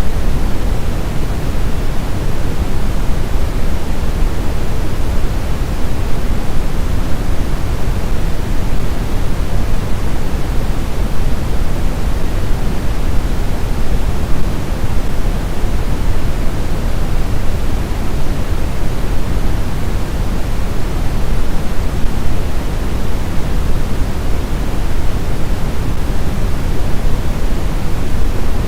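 Loud, steady white noise of the kind played to settle a baby to sleep: an even, unchanging hiss that is heavier in the low end.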